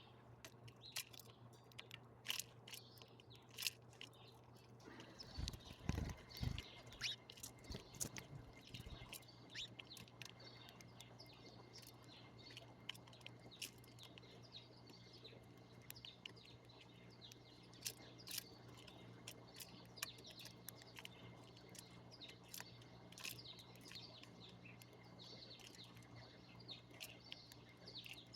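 Small birds chirping, many short quick calls overlapping throughout, with a few low thumps about five to nine seconds in.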